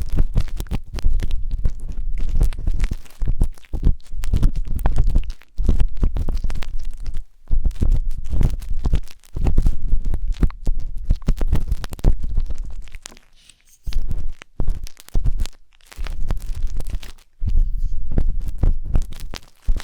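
A wooden skewer scraping and rubbing inside the silicone ear of a 3Dio binaural microphone. The close-up scratching has a deep rumble and comes in irregular strokes, with a couple of short pauses in the second half.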